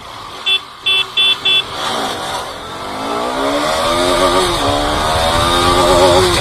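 Four short, high-pitched beeps, then a Bajaj Pulsar RS200's single-cylinder engine accelerating hard: its pitch climbs, drops at two upshifts, and climbs again, with rising wind rush.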